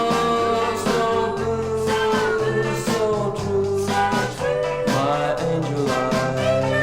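A 1962 pop record playing in stereo, with a stepping bass line, regular drum strokes and long held melody notes over them.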